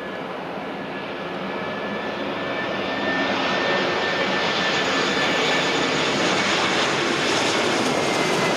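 Twin turbofan jet engines of an easyJet Airbus airliner going around in strong wind: a rushing noise with a thin steady whine, which grows louder about three seconds in and stays loud.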